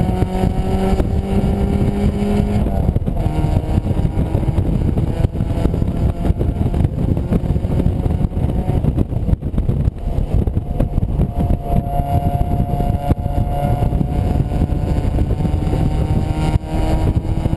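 Mazda MX-5's four-cylinder engine pulling hard in the open cockpit, with heavy wind rumble on the microphone. The engine note climbs steadily, drops suddenly about three seconds in, and climbs again in the second half.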